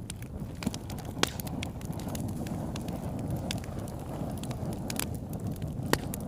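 Wood campfire burning with a steady low rush of flames and irregular sharp crackles and pops, two of them louder, about a second in and near the end.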